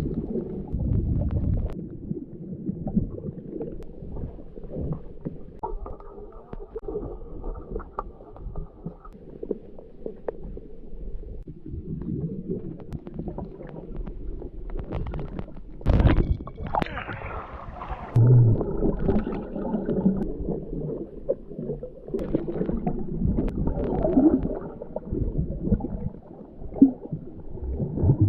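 Muffled gurgling and sloshing water with a low rumble, as heard by a microphone underwater, with a few louder splashes.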